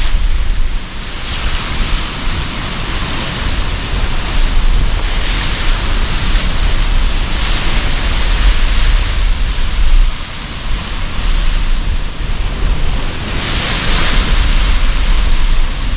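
Sea surf breaking under a strong wind: a constant low rumble with waves washing in and hissing every few seconds, the biggest wash near the end. Wind buffets the microphone.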